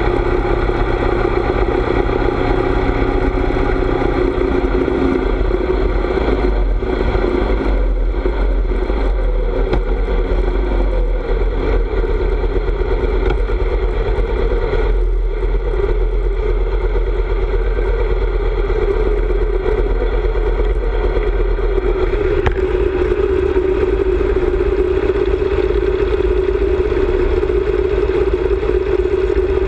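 Harley-Davidson V-twin motorcycle engine running steadily while riding, with a low wind rush over the microphone. The engine note shifts slightly about four seconds in and again a little past twenty seconds in.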